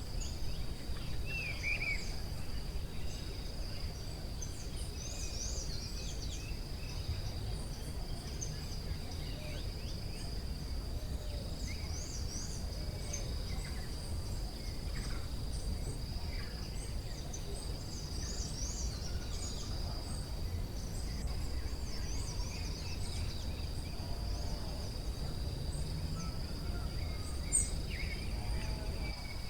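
Forest ambience: a steady high insect drone runs throughout, with many short, high bird chirps scattered over it and a low steady rumble underneath.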